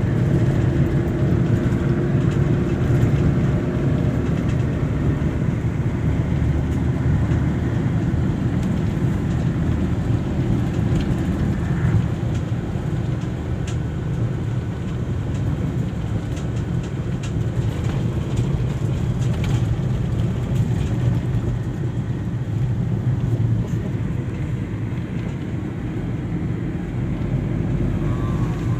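Steady low rumble of a road vehicle on the move, engine and road noise.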